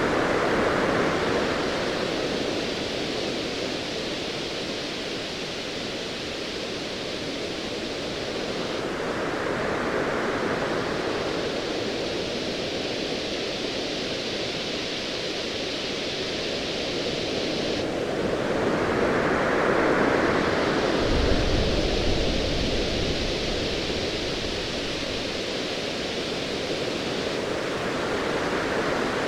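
Ocean waves surging in slow swells about every nine seconds over a steady hiss, with a low rumble of distant thunder about two-thirds of the way through.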